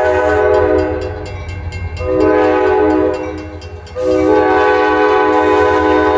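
Diesel freight locomotive's multi-tone air horn sounding three blasts, two of about a second each and then a longer one, a chord of several steady notes: the horn signal for a grade crossing.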